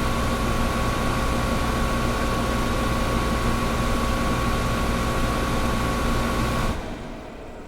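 Air conditioner running with a steady hum of noise and a few steady tones; near the end the tones and low hum cut off suddenly and the sound drops to a much quieter hiss.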